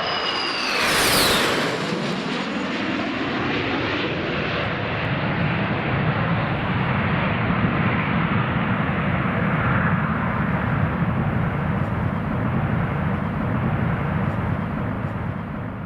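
Airbus A380-861's four Engine Alliance GP7200 turbofans at takeoff power: a whine falling in pitch as the jet passes about a second in, then a steady deep rumble that fades near the end.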